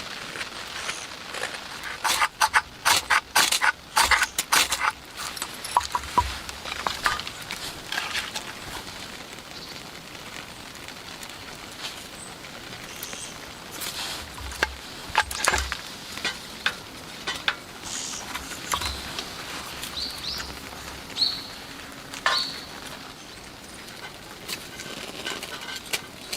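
Light rain pattering steadily, with scattered clicks and knocks over it and a quick run of them about two to five seconds in.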